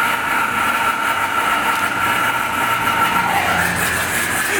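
High-pressure car wash sprayer running: a steady rushing hiss with a pump whine, the whine dropping slightly in pitch about three and a half seconds in.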